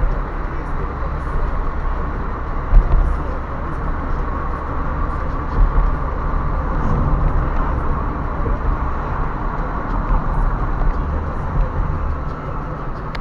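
Car on the move: a steady rumble of engine and road noise, with a couple of brief knocks.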